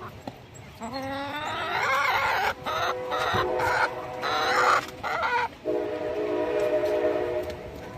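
Chickens squawking in loud, wavering, broken-up calls, followed near the end by a steady horn-like tone.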